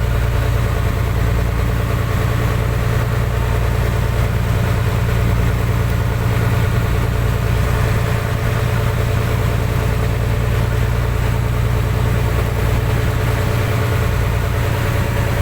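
Fishing boat's engine running steadily at a constant, low throb, with no change in speed.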